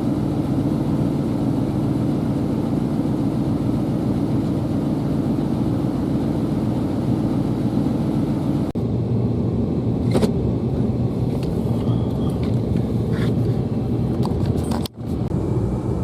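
Steady engine and road noise of a vehicle driving, a low even rumble. About two-thirds of the way through the sound changes abruptly, and a few light knocks follow.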